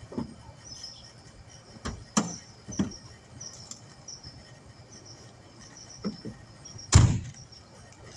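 Scattered knocks and clunks of tools being handled, about seven in all, the loudest about seven seconds in. Faint bird chirps in the background.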